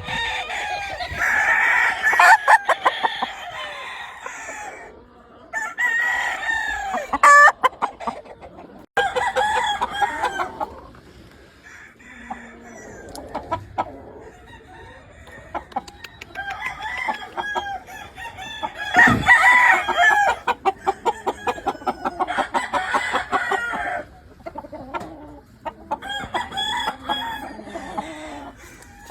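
Gamefowl roosters crowing again and again, several at once and overlapping, with hens clucking between the crows.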